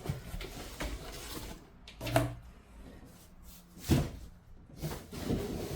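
Cardboard boxes and packaging being handled during an unboxing: rustling and scraping, with two sharp knocks about two and four seconds in.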